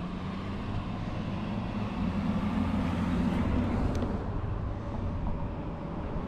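Road traffic noise, with a passing motor vehicle's engine hum swelling about two seconds in and fading after about four seconds.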